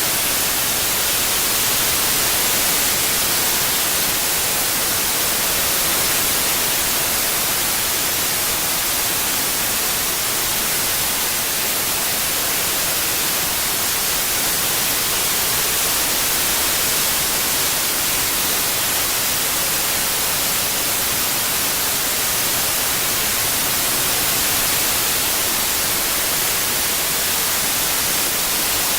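Steady synthetic white noise: an even, unbroken hiss across all pitches, brightest in the treble.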